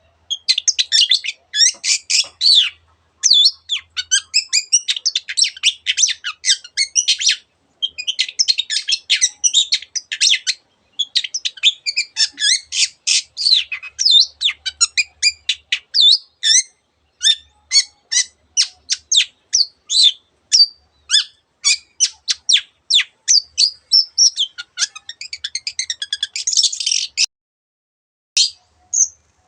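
Long-tailed shrike singing a fast, varied song full of imitations of other birds' calls: dense runs of chirps and trills in phrases a few seconds long with short pauses, then separate sharp notes about two a second. The song stops near the end, apart from two brief notes.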